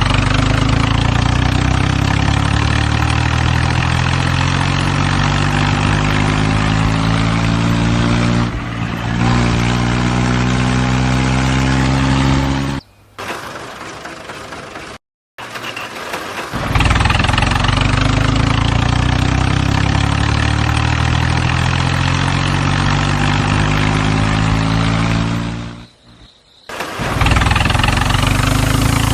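Tractor engine running steadily, its pitch drifting slightly. It cuts out abruptly about 13 seconds in, comes back a few seconds later, then drops out briefly again near the end.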